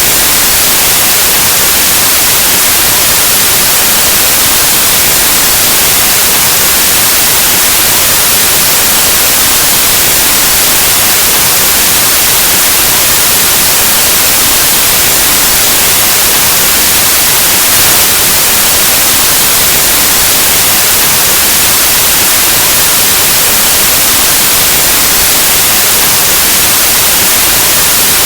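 Steady, loud white noise: an even static hiss across the whole range, like an untuned analog television or radio.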